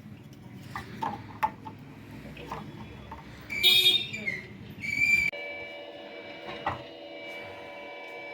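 Light clicks and knocks of handling on a workbench, then two short, loud electronic beeps. About five seconds in, a steady electrical whine of several tones starts and runs on, as from powered electronic equipment.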